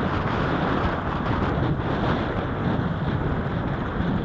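Steady wind noise buffeting the microphone of a camera riding along on a moving bicycle.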